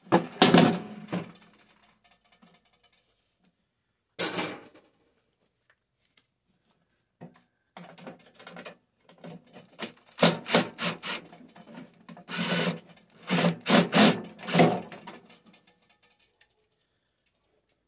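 Scraping and rubbing of microwave parts being handled and shifted about, in irregular bursts with a longer busy stretch in the second half.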